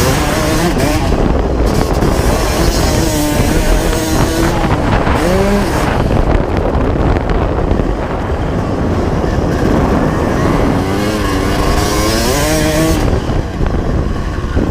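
1995 Honda CR250R's single-cylinder two-stroke engine being ridden, its pitch rising and falling repeatedly as the throttle opens and closes, with wind on the microphone.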